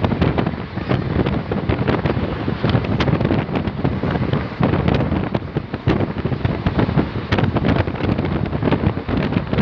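Wind buffeting the microphone: a loud, steady low rush broken by many short crackles and pops.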